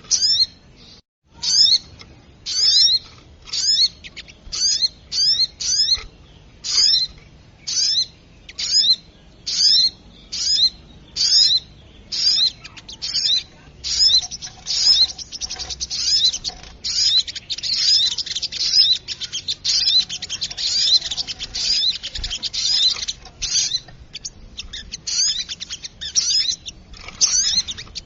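Small songbird, sold as the sogok ontong lure call, giving rapid, repeated sharp chirping call notes, about two a second, running into a denser excited chatter midway. The call is a lure meant to draw small birds in.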